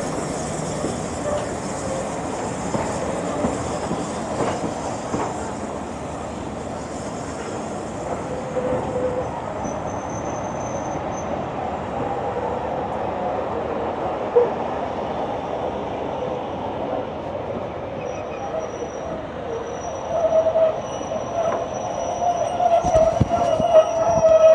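A heritage railway train running along the rails with a steady rumble; wheel squeal comes in over the last few seconds, with a few knocks near the end.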